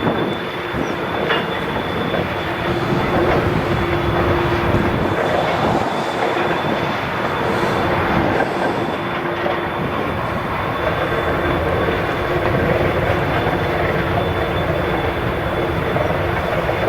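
Freight train cars rolling past on the rails, a steady, continuous rumble and rattle of wheels on track.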